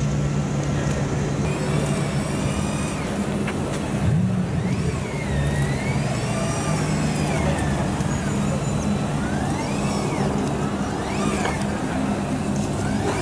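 McLaren P1's 3.8-litre twin-turbo V8 running steadily at low revs as the car creeps along. High wavering whistles come and go above it a few times.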